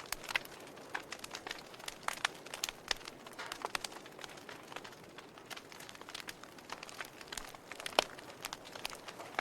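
Wood fire burning in a fireplace, crackling and popping: irregular sharp pops over a soft steady hiss, with one loudest pop about eight seconds in.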